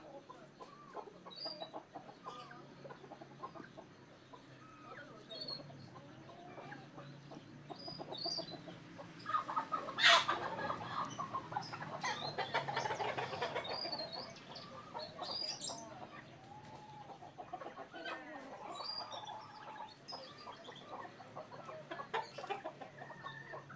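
Birds calling: many short, clucking calls overlapping, with one sharp knock about ten seconds in and a busier stretch of calls just after it.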